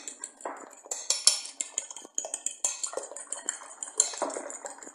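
A utensil beating eggs and sugar in a bowl, clinking rapidly and irregularly against the bowl's side.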